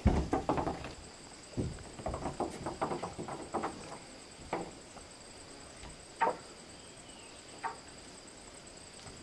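Irregular knocks and clatters of wood being handled and worked. There is a quick flurry at the start and another about two to four seconds in, then single knocks every second or so, over a steady high-pitched whine.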